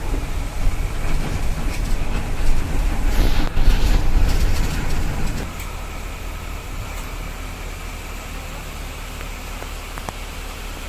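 Tata bus on the move: engine and road rumble, heavy in the low end, easing to a quieter steady hum about five and a half seconds in.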